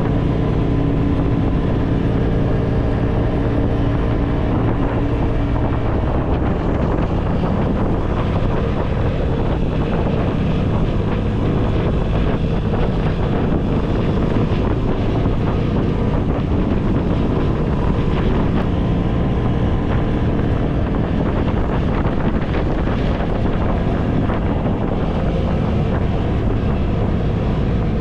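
An engine running steadily, with wind buffeting the microphone throughout.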